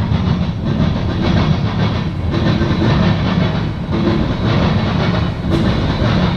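Freight train cars rolling past close by: a steady low rumble with wheel clatter on the rails. The sound eases briefly about every second and a half as each gap between cars goes by.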